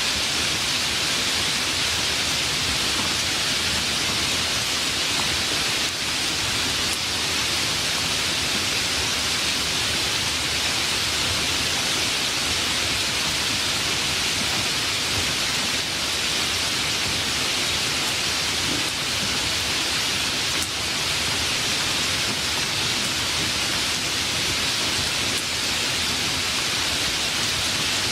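Steady, even rainfall, a dense hiss of rain with no distinct drops or thunder claps standing out.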